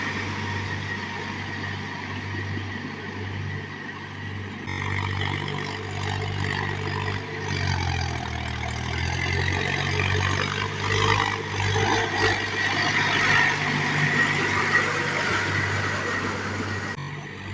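An engine running steadily, its pitch dropping briefly about eight seconds in before settling back.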